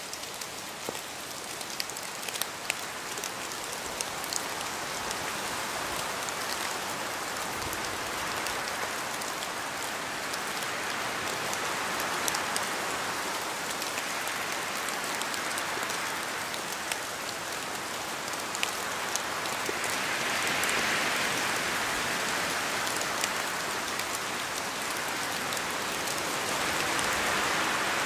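Steady rain falling, a continuous hiss that swells and eases gently, with scattered sharp drop ticks on a surface.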